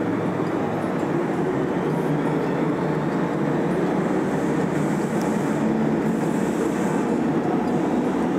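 Kintetsu passenger train pulling out of a station and passing close by at low speed: a steady rumble of wheels on rail and running gear that grows a little louder as the cars go past.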